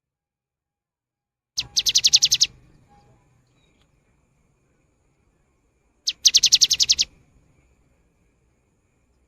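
Cinereous tit (gelatik batu) singing two short phrases of rapid, evenly repeated high notes. The first comes about a second and a half in and the second about six seconds in, each lasting about a second.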